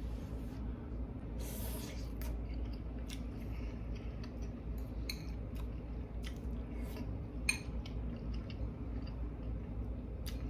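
A person eating: chewing, with scattered short clicks, over a steady low hum.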